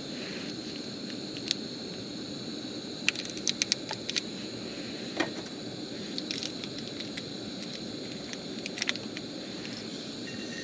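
Steady hiss of a propane burner running, with scattered light metallic clicks and clinks, a quick cluster of them about three seconds in.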